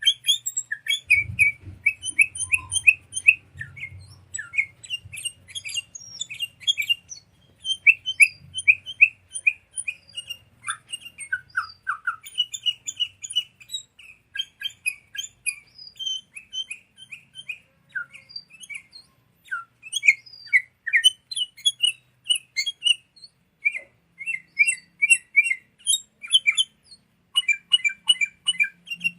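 Sooty-headed bulbul (kutilang) calling: quick runs of short, bright chirps, phrase after phrase with brief pauses between.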